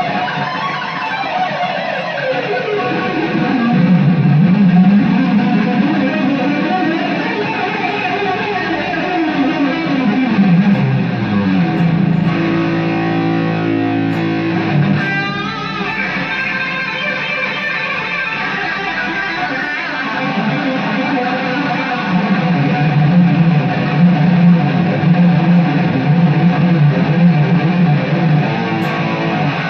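Aria Pro II PE-TR-1G electric guitar being played through an amplifier, with sustained notes and chords. Twice, in the first few seconds and again about ten seconds in, a long note slides downward in pitch.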